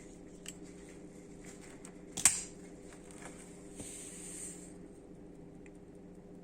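A handmade flip-out folding knife being handled: a few light clicks and one sharp snap about two seconds in, then a brief rubbing hiss.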